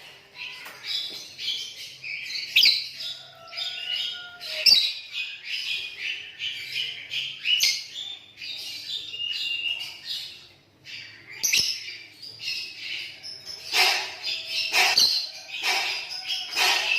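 Lovebirds chattering: a continuous stream of rapid high chirps and squawks, with a few sharp shrill calls and a louder, denser burst near the end.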